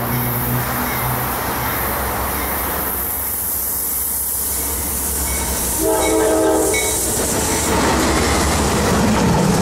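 Freight train's diesel locomotives approaching with the air horn sounding, the horn stopping about a second in and giving one more short blast about six seconds in. The locomotives' engines and wheels grow louder as they pass near the end.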